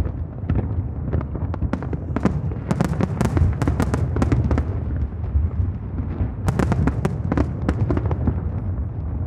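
Aerial fireworks bursting: rapid, overlapping cracks and bangs in dense clusters over a continuous low rumble of distant explosions echoing off the harbour.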